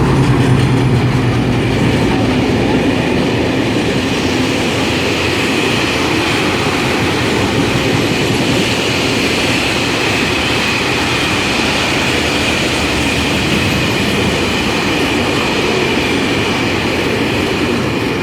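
Freight train hauled by a Class 56 diesel locomotive passing at speed. The locomotive's low engine drone fades in the first second, then the train rolls by in a steady loud rumble and clatter over the rails, with a faint high steady squeal from the wheels in the middle.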